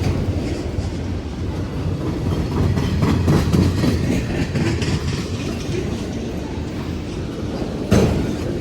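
Freight train of empty autorack cars rolling past: steady wheel rumble with rapid clickety-clack of wheels over rail joints, and a sharper bang near the end.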